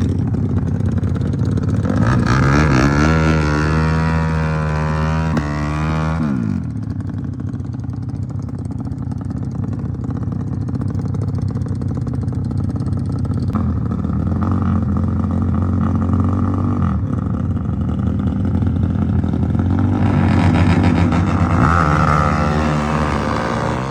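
Drag-racing motorcycle engines revving and running. Their pitch climbs and drops sharply a couple of seconds in, holds steadier through the middle, and rises again near the end.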